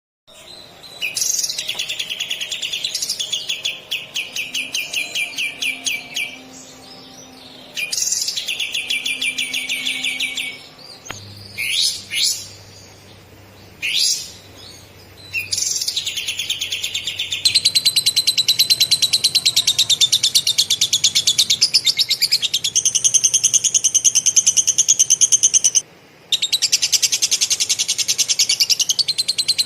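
Kapas tembak (streak-eared bulbul) singing lovebird-style material. First come bursts of very fast, buzzy high trills, then a few quick rising whistled sweeps, then one long unbroken rapid trill from about 17 seconds in, cut off briefly near the end.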